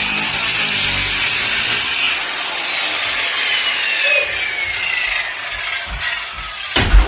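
Corded power saw cutting through wood, a steady rasping with a motor whine that slowly drops in pitch. A single loud knock near the end.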